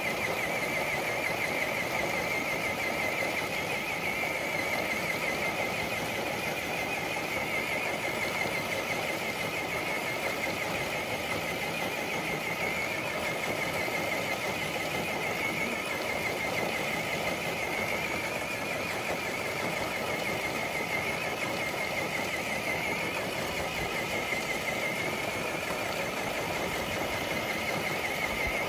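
Electric motor and drivetrain of a scale RC crawler truck whining steadily under load as it drags a weighted dead sled. The pitch wavers slightly as the load shifts.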